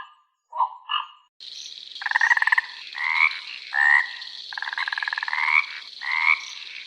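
Frogs croaking in five trains of rapid pulses over a steady high-pitched hiss of insects or background. Two short calls come in the first second and a half, before the croaking begins.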